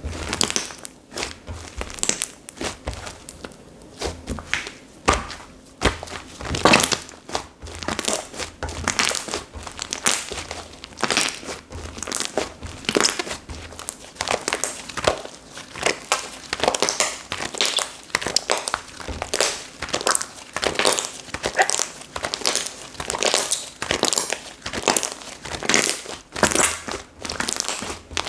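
Slime being squished, stretched and pressed by hand, giving repeated short crackling squishes at an uneven pace, about one or two a second.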